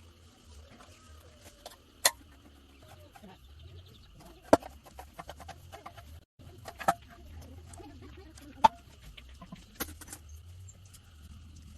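Sharp knocks and clinks a second or two apart, like tools or metal parts being set down, with hens clucking in the background. A steady high whine runs underneath.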